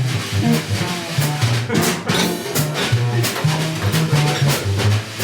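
Live jazz combo playing: a bass line stepping note by note under a horn melody, with a drum kit keeping time on cymbals and drums.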